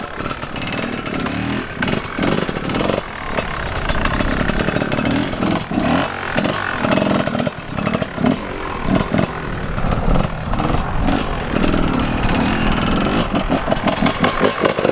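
Two-stroke dirt bike engines revving up and down in quick surges as they are ridden, the pitch rising and falling over and over.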